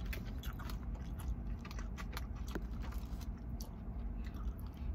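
A person chewing a mouthful of food close to the microphone, with many small irregular wet clicks and smacks, over a steady low hum.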